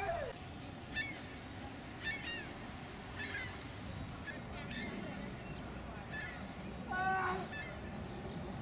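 Birds calling: a series of short, high, falling chirps about once a second, and one louder, lower call about seven seconds in.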